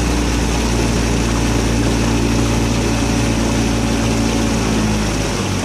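Motorboat engine running steadily on the water, its note shifting near the end.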